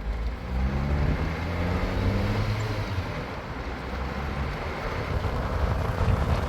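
A motor vehicle's engine running under a haze of road or wind noise. Its pitch climbs over the first two seconds or so, then holds.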